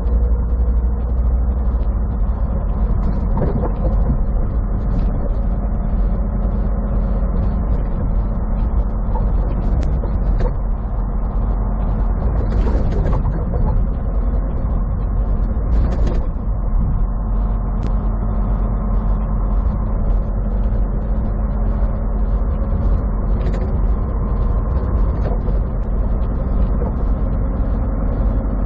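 Semi-truck engine running with road noise, heard from inside the cab while driving: a steady low drone with light rattling, and two brief louder noises about halfway through.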